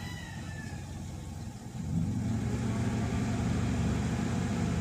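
Toyota Vios four-cylinder engine at a sagging, labouring idle that picks up about 1.7 s in and runs louder and steadier as the RPM comes back up. The hunting idle is the car's fault, which the mechanic puts down to the oxygen sensor.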